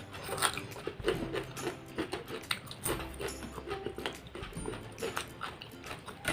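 Close-up mouth sounds of eating fried catfish: a string of wet chewing clicks and lip smacks at the phone microphone.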